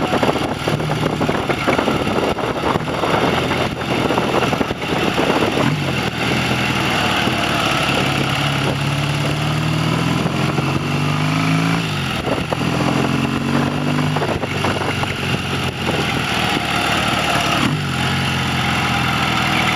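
Classic motorcycle engine running under way. Its pitch climbs as it accelerates and drops sharply at gear changes, about twelve and again about sixteen seconds in.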